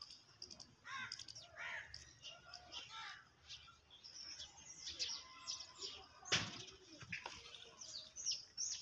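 Small birds chirping, many short high calls that mostly fall in pitch, thickest in the second half, with one sharp click about six seconds in.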